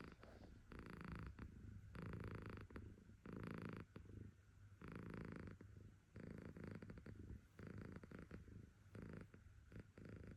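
Domestic cat purring, rising and falling in pulses about every second and a quarter with each breath in and out.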